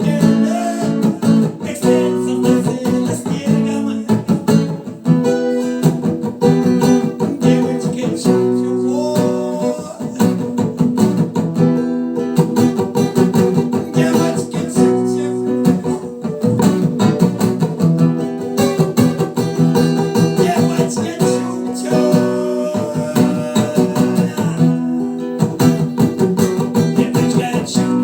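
Acoustic guitar strummed in a steady rhythm through an instrumental stretch of an eco-punk rock song.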